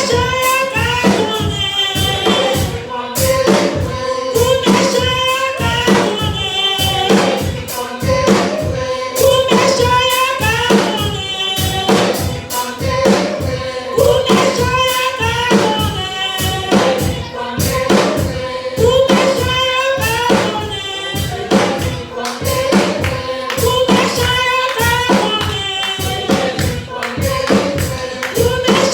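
Several voices singing a gospel song together in a church service, with percussion keeping a steady beat.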